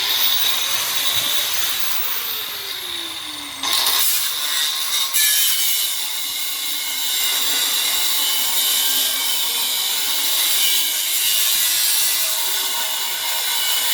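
Power cutting tool with a blade grinding through the thick steel of a safe. Its pitch sags under load over the first few seconds, then picks up again about four seconds in.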